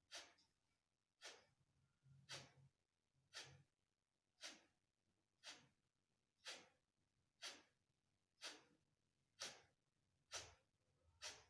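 Kapalbhati breathing: short, forceful exhalations through the nose, about one a second and evenly paced, each a brief puff of breath. They are faint, with near quiet between strokes.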